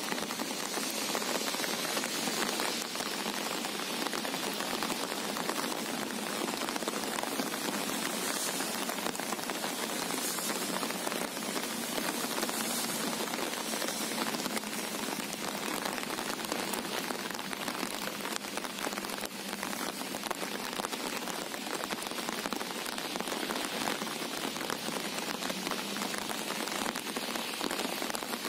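Steady rain falling on calm sea water: an even, dense hiss made of countless fine drop ticks, unchanging throughout.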